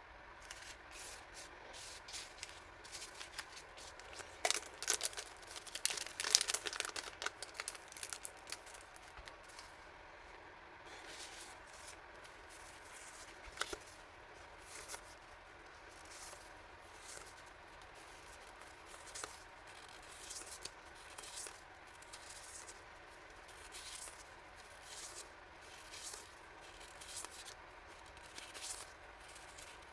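Packaging handled by hand: crinkling, rustling and tearing, with many quick crackles. It is densest and loudest a few seconds in, then settles to lighter, scattered rustles and taps.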